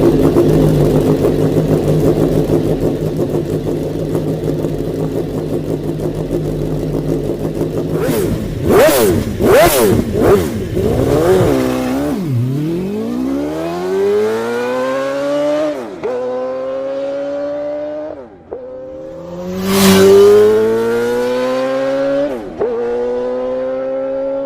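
Motorcycle engine running steadily, then revved in several quick blips, then accelerating away through the gears: the exhaust note rises in pitch, drops briefly at each upshift and climbs again.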